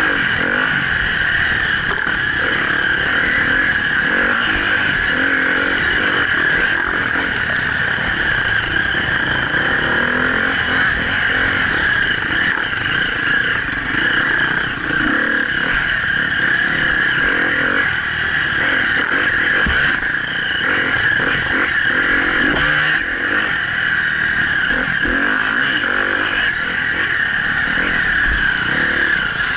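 Enduro dirt bike engine running loud and close from the onboard camera's own motorcycle, held at a fairly steady throttle along a dirt trail with only small dips.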